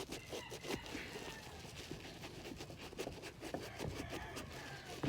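Soapy sponge scrubbing the leather tongue of an Air Force 1 sneaker: irregular short rubbing and scuffing strokes.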